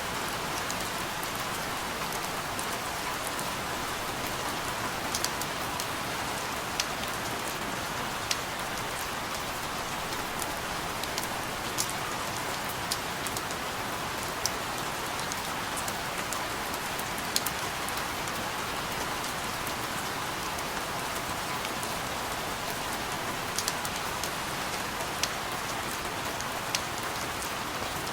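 Steady rain falling, an even hiss, with scattered sharp drips and ticks of individual drops landing on a surface every second or so.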